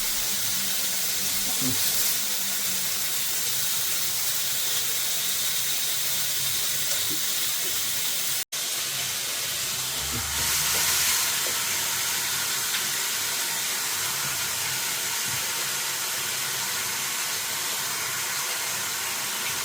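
Breaded chicken strips frying in hot oil: a steady sizzle that is cut off for a moment about eight seconds in. The strips are still browning and not yet done.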